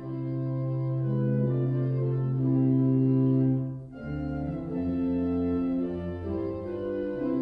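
Organ playing slow, held chords, with a brief break between phrases about four seconds in.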